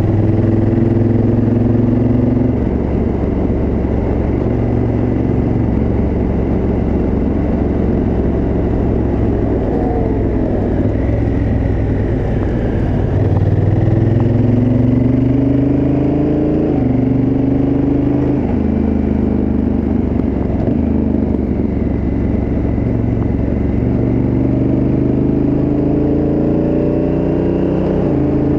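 Honda Africa Twin CRF1000L parallel-twin engine through its stock exhaust, ridden on a winding road: the engine note climbs steadily under acceleration and drops sharply at gear changes a few times, over a constant rush of wind and road noise.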